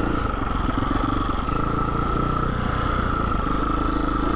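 Husqvarna 350 FE dirt bike's single-cylinder four-stroke engine running on the trail under steady throttle.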